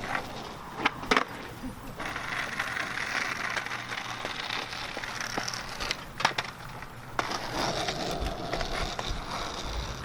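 Skateboard rolling on pavement, with sharp clacks of the board slapping the ground about a second in and again around six seconds in, the sound of tricks being attempted and landed.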